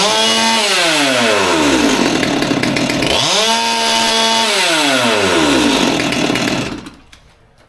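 Stihl MS200T top-handle chainsaw's two-stroke engine revved to full throttle twice, each time held about a second at high revs and then dropping back toward idle. The engine cuts off near the end.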